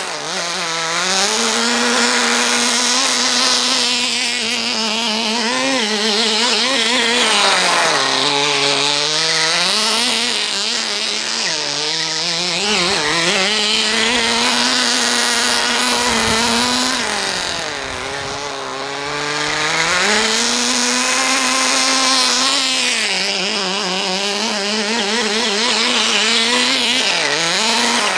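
Kyosho Sandmaster 10 RC buggy's small two-stroke nitro engine running, its pitch rising and falling as the throttle is worked and several times dropping to a lower note before climbing again. It sounds like a healthy engine on its first run after restoration.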